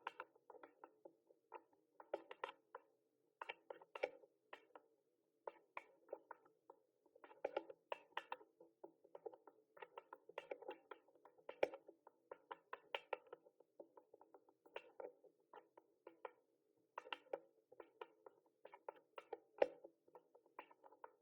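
Mechanical keyboard typing: quick key clicks in irregular bursts, with short pauses between runs of keystrokes.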